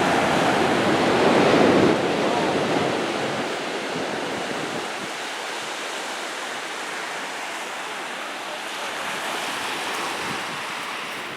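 Ocean waves breaking on a beach: a wave breaks at the start, loudest in the first two seconds, then eases into a steadier wash of surf.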